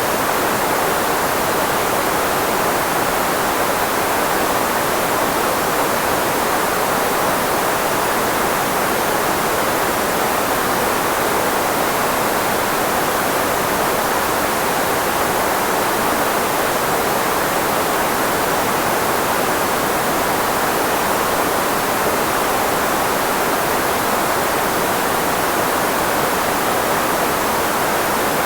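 Steady synthetic white noise, filtered to concentrate in the range of the human voice so as to mask speech, with no change in level or character.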